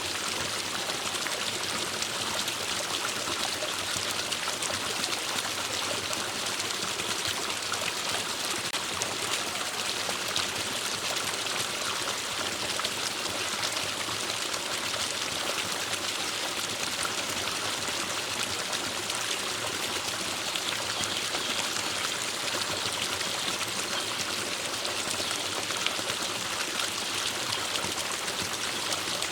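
A forest stream running over rocks: a steady rush of flowing water with fine trickling and splashing, even throughout.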